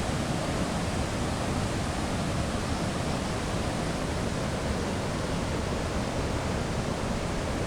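Steady, even rush of the Ézaro waterfall, its water running at a low dry-season flow.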